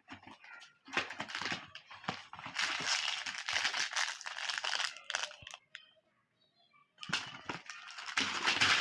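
Plastic candy wrappers crinkling and tearing in irregular bursts, with a short quiet gap about six seconds in.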